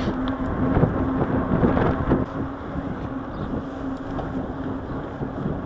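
Wind rushing over the microphone of a riding cyclist's camera, with a steady low hum underneath.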